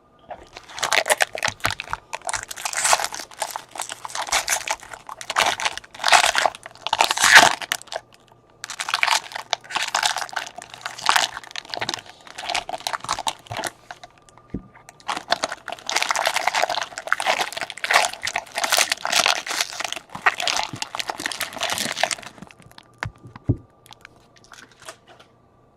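Crinkling and tearing of a trading-card pack's foil wrapper as it is ripped open and handled, in three long bouts with short pauses between.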